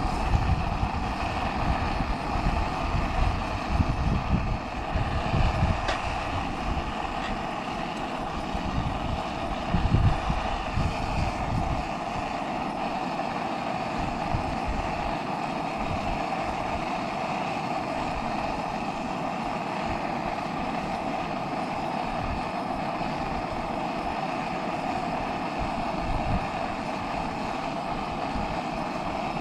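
Gas camping burner running with a steady hiss. Wind buffets the microphone with low rumbling gusts for about the first twelve seconds, then eases.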